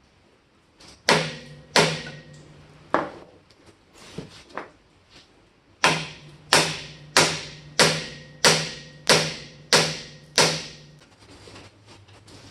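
Hammer blows on steel. There are three spaced strikes, then a run of eight even blows about one and a half per second, each with a short ring.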